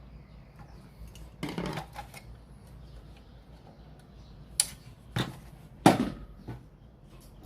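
Small hard objects being handled during repair work. There is a short clatter about one and a half seconds in, then three sharp knocks a little over half a second apart near the end, the last the loudest.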